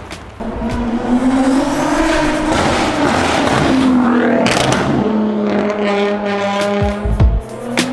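A car engine revving, its pitch rising and then falling over about four seconds, then settling into a steadier engine note.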